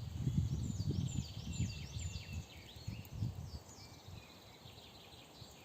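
Woodland birdsong: a bird repeats short, high, falling whistled notes about twice a second, with other chirps around it. Under it, a louder low rumbling with uneven thuds fades out after about three seconds.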